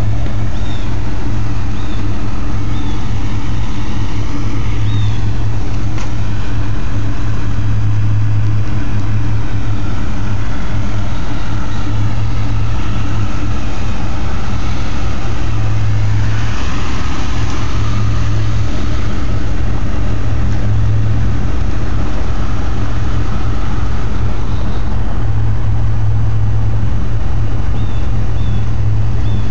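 1989 Chevrolet Caprice Brougham LS idling steadily, a low, even engine and exhaust hum.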